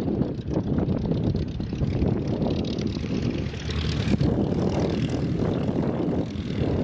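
Piston-engined propeller warbird flying overhead, its engine running steadily and swelling slightly about four seconds in.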